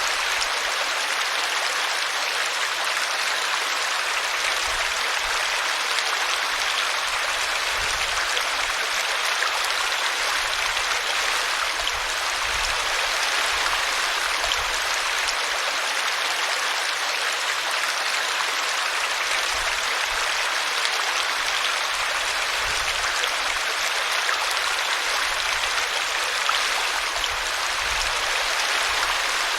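A small brook splashing steadily as it tumbles over a tree root.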